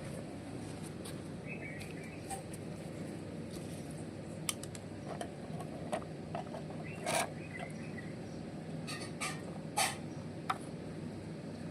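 Small geared electric motors of RC model tractors running with a steady low hum, with scattered sharp clicks and short squeaks from the gears and drivetrain.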